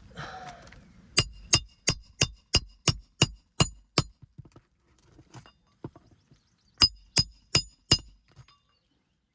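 A hammer driving roofing nails into asphalt shingles: a quick series of nine sharp, ringing metal-on-metal strikes at about three a second, a pause, then four more strikes.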